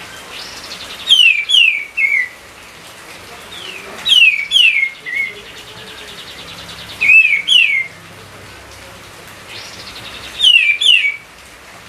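A songbird singing, repeating a short phrase about every three seconds: two or three loud whistled notes that slide down in pitch, with a softer buzzy trill between phrases. A faint steady hiss lies underneath.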